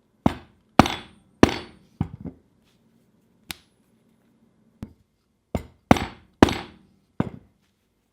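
Hammer blows on steel: about eleven sharp strikes in irregular groups, each with a short metallic ring.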